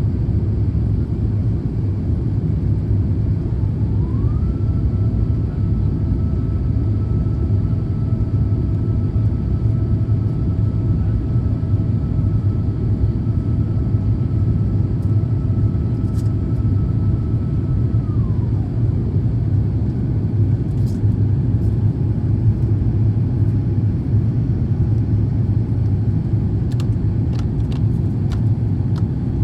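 Steady low rumble of airflow and engine noise heard inside the cabin of an Airbus A350-1000 in flight. A faint whine rises about four seconds in, holds, and drops away about eighteen seconds in. A few faint clicks come near the end.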